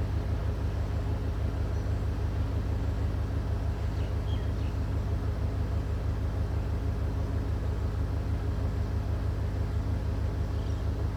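Diesel railway engine idling with a steady, low, rhythmic throb.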